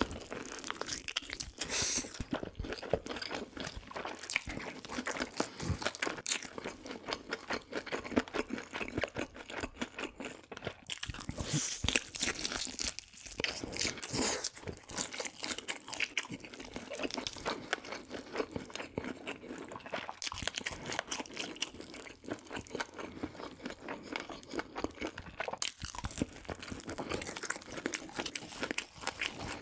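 Close-miked crunching and chewing of crispy fried food, with many sharp crackles, bite after bite.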